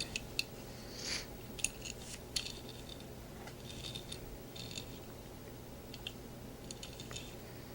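Faint scattered clicks and light taps of a small die-cast toy fire truck being handled and turned in the hands, over a low steady hum.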